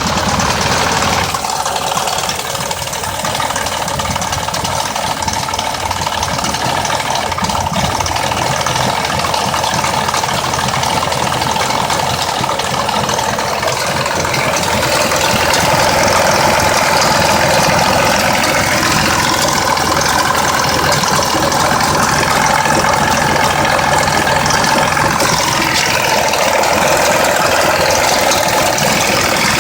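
2004 Mazda 6s 3.0-litre V6 idling roughly with a steady ticking rattle. The owner suspects a faulty bank 2 VVT solenoid as the cause of the rough idle.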